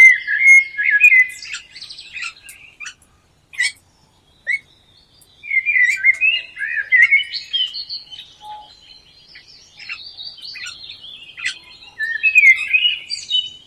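Songbirds singing: warbling, chirping phrases in bouts, with short sharp chip notes between them and a brief lull about three to five seconds in.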